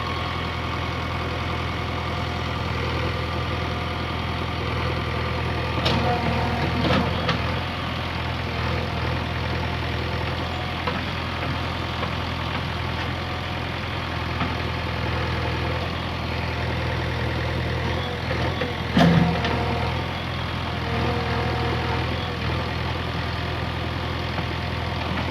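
JCB backhoe loader's diesel engine running steadily, with a few sharp knocks from the machine's work: two about a quarter of the way in and a louder one about three-quarters through.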